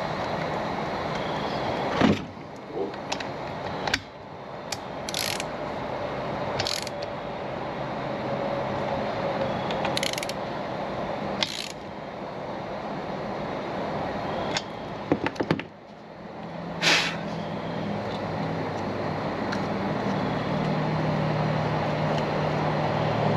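Stihl FS 55 RC string trimmer parts being handled and fitted back together: scattered sharp clicks and knocks, with a quick cluster of them about fifteen seconds in, over a steady background hiss.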